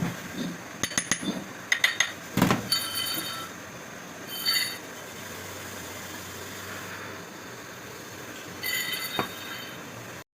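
Metal tools and parts clinking and knocking in irregular clusters, a few with brief metallic ringing, over a steady workshop hum.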